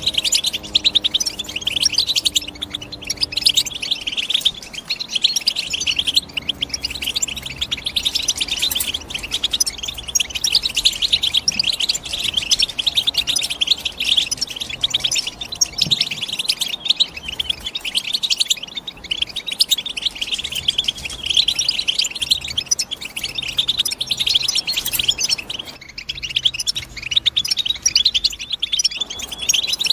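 European goldfinch song: a fast, unbroken twittering of high chirps and trills.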